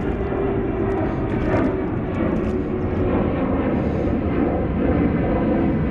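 Strong wind blowing across the microphone: a steady, loud rumble.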